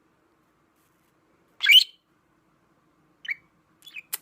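Budgerigar giving one loud, short, shrill call about two seconds in and a softer chirp a second or so later, followed by a few sharp clicks near the end.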